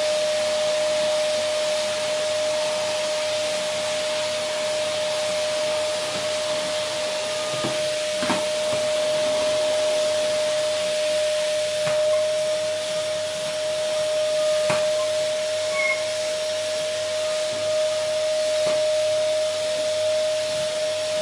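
Vacuum cleaner running steadily: a continuous rushing of air with a steady motor whine, and a few faint knocks now and then.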